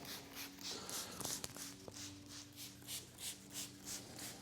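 Spray bottle of water-spot remover being triggered rapidly, a quick run of short hissing spritzes at about four a second, over a faint steady low hum.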